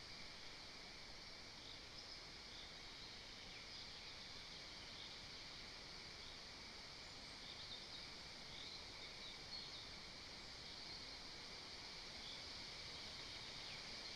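Faint, steady forest ambience at an outdoor nest: an even hiss with scattered faint, high chirps.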